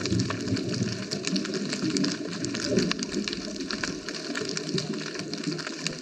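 Underwater sound on a scuba dive: a steady crackle of many small clicks over a low, uneven bubbling rumble that swells now and then.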